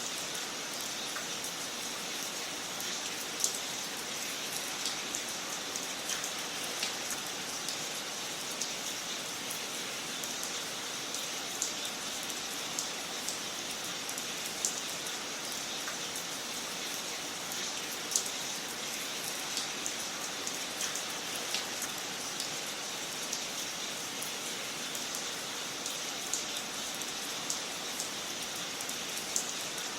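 Wood fire burning in a fireplace: a steady hiss with irregular crackles and pops throughout, with a louder pop a few seconds in and another about halfway.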